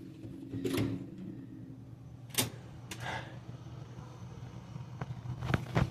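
Steady low hum of a hotel hallway, broken by a few sharp clicks and knocks: one about two and a half seconds in and a cluster near the end.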